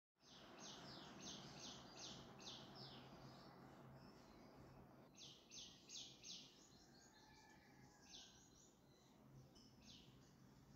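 Faint birds chirping in quick runs of several short high notes, heard a few times, over a low steady background hum.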